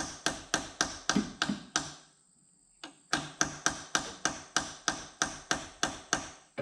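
A hammer striking a chisel wedged into the head gasket seam of an Opel CIH four-cylinder engine, about three quick blows a second with a pause of about a second near the middle, each blow ringing briefly. The cylinder head is stuck to the block and is not coming loose.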